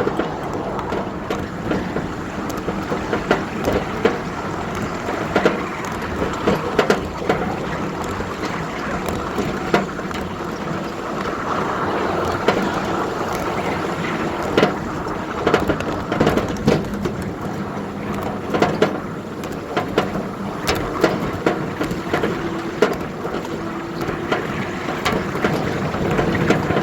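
A 7-1/4 inch gauge ride-on miniature train running along the track, a steady running noise broken by frequent sharp clicks and knocks.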